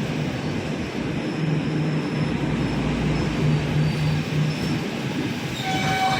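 A train passing on the tracks with a steady rumble. Near the end its wheels begin to squeal with several high, steady tones.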